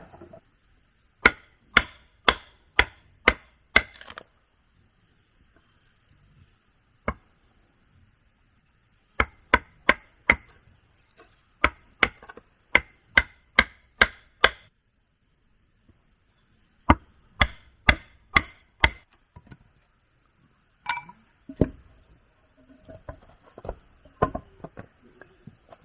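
Wood being chopped: sharp strikes of a blade into wood, in three runs of about two strikes a second, with lighter, scattered knocks near the end.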